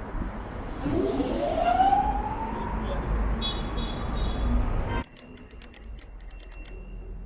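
City street traffic noise with a single rising, siren-like wail that climbs for about two seconds from about a second in, then fades. About five seconds in, the traffic noise cuts off suddenly and rapid ticking follows for under two seconds.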